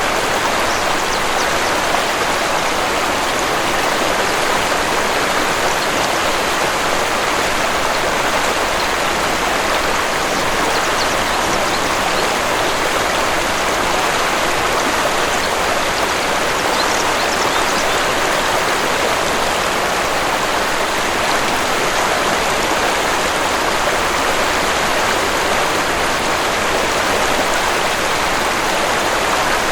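Waterfall water rushing and splashing in a steady, unbroken hiss.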